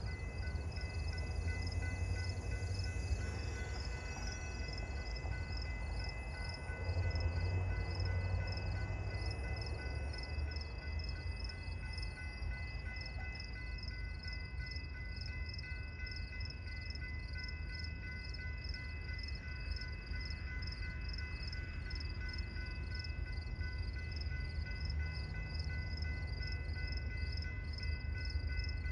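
Diesel-powered freight train rumbling as it accelerates from a stop, locomotives pulling. A faint, regular high-pitched pulsing, about two a second, runs beneath it.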